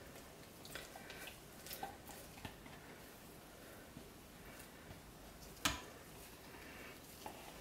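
Faint soft ticks and squishes of soap batter being poured from a pot into a mould, with one sharper click nearly six seconds in.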